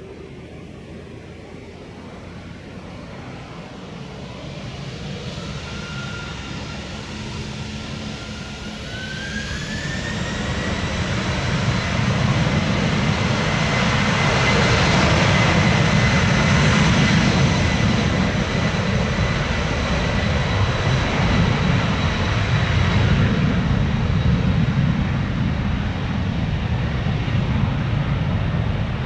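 Boeing 767-300 freighter's twin jet engines on takeoff: a whine rises in pitch about a third of the way in as they spool up, and the jet noise grows loud and then holds with a deep rumble.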